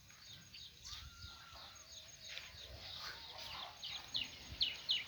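A flock of birds calling: many short, high chirps that fall in pitch, overlapping, then louder and more regular toward the end at about three a second.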